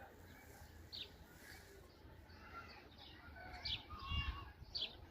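Birds calling outdoors: three short, sharp chirps that drop in pitch, a second or more apart, with some warbling between the last two, over a faint low rumble.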